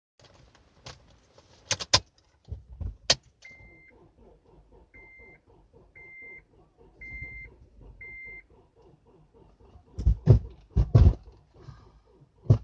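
Car key clicks and a jangle, then the Honda Element's warning chime beeping five times, about once a second, over a faint rapid ticking, followed by a few heavy thumps near the end. The car does not start.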